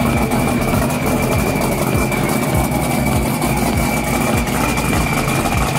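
A car engine idling steadily, with a thin, steady high-pitched tone running over it.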